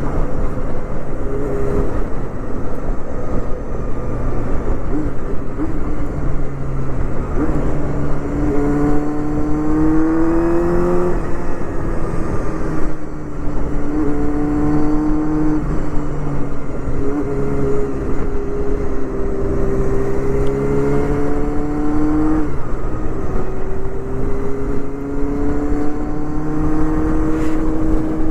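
Honda Hornet 250's inline-four engine through a Pretty Racing aftermarket exhaust, under way with wind rush. Its pitch climbs under throttle and drops sharply at gear changes, about a third of the way in and again about four-fifths through.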